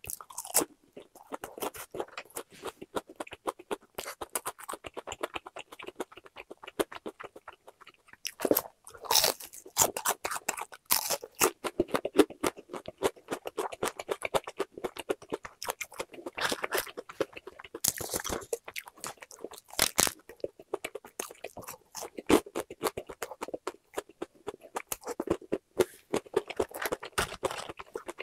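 Close-up crunching and chewing of crispy boneless fried chicken, its battered coating crackling with each bite and chew. A few bites stand out as louder clusters of crunches.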